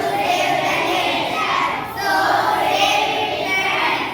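Children's voices calling out together in two long, drawn-out phrases, with a short break about two seconds in.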